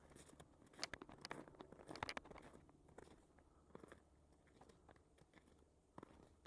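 Faint scattered crunches and clicks, thickest in the first two seconds or so and then sparse, over near silence.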